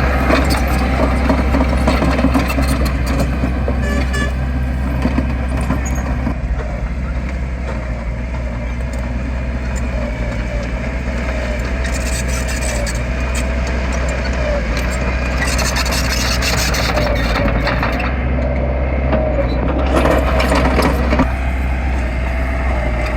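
Heavy earthmoving machine's diesel engine running steadily under load, a low drone with a wavering whine over it and a few brief rushing noises.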